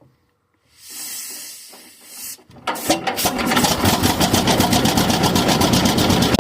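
A hiss lasting about a second and a half. Then a tractor engine catches about two and a half seconds in and keeps running steadily with a rapid, even beat.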